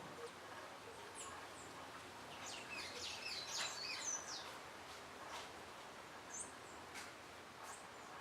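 Small birds chirping: a quick flurry of short, high calls a few seconds in, with a few single chirps before and after.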